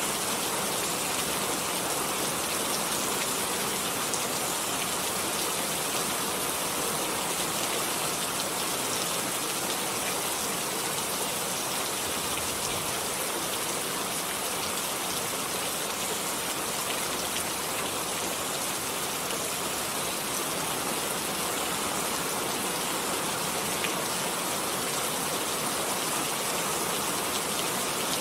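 Steady heavy rain falling, a dense even hiss of raindrops striking surfaces.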